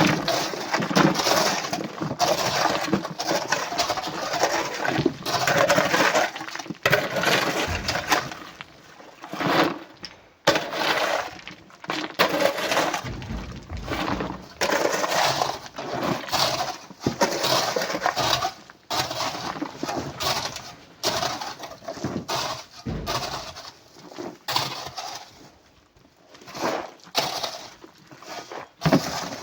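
Coral rock and stones clattering and crashing as they are loaded into a truck, in repeated irregular bursts a second or two long.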